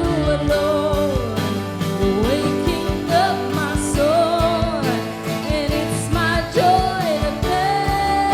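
Live worship music: a band playing held chords over a steady drum beat, with a voice singing long gliding notes.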